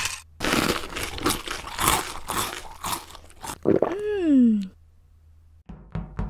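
Close-miked ASMR eating sounds: rapid, dense crunching and chewing for about three seconds. About four seconds in comes a short pitched sound that slides downward, then a few quick sharp taps near the end.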